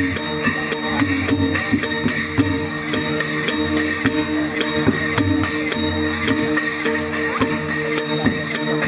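Traditional dance-accompaniment percussion band playing a steady beat: cymbals clashing about three to four times a second over ringing gong tones and a low drum.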